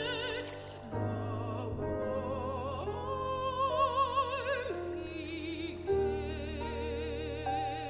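A soprano sings long, held notes with a wide vibrato over piano chords, in the manner of a classical art song; the voice climbs to a high held note about three seconds in.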